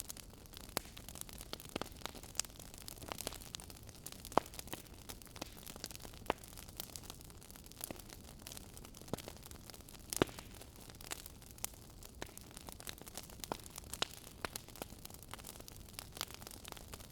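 Wood fire in a fireplace crackling, with irregular sharp pops and snaps over a steady low hiss of burning.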